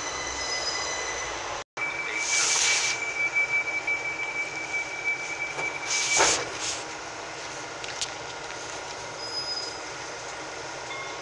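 Southern Class 377 Electrostar electric multiple unit pulling up at the platform, with a steady high squeal and two short hisses of air, one about two and a half seconds in and one about six seconds in. The sound cuts out for an instant just before two seconds in, then settles to a quieter, even hum after the second hiss.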